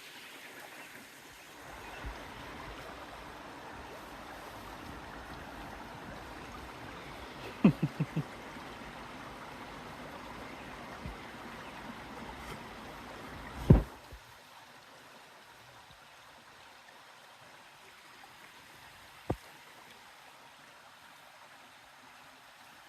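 Creek water running steadily, with a few quick knocks about eight seconds in and a sharp knock at about fourteen seconds, after which the running water sounds fainter; one more click near the end.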